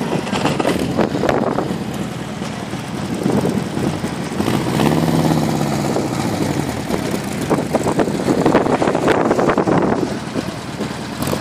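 Beach buggy engines running at idle, with the engine note rising and falling about five seconds in.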